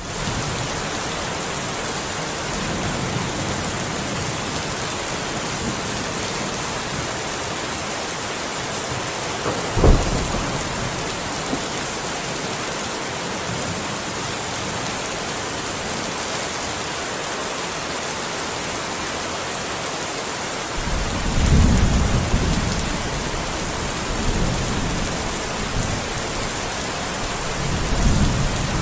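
Steady heavy rain, with a single sharp thunderclap about ten seconds in and low rolling thunder rumbling later on, swelling again near the end.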